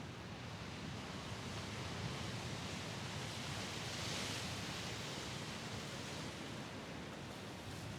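Sea waves washing against the shore as a steady hiss of surf, with one wave swelling to a peak about halfway through and then easing off.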